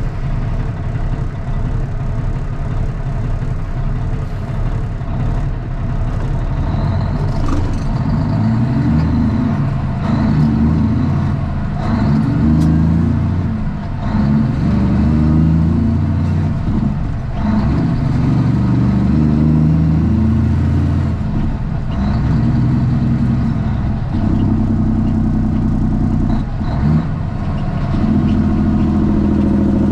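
Straight-piped Cummins ISX inline-six diesel in a Kenworth T800 pulling through the gears, its note climbing and then dropping at each upshift, over and over.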